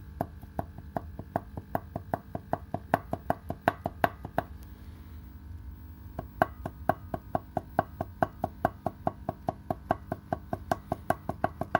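Connecting rod of a Toyota 1AZ-FE engine rocked by hand on the crankshaft, giving a run of sharp metal clacks about three a second that stops for a couple of seconds midway: free play from a worn rod bearing shell, the cause of the engine's knock.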